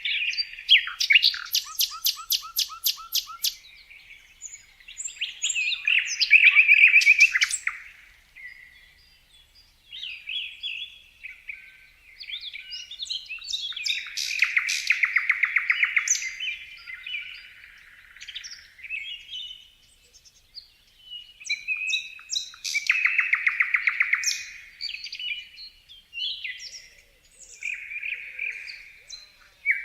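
A songbird singing. Song phrases of fast, rapidly repeated trilled notes come every several seconds, with softer chirps and short notes between them.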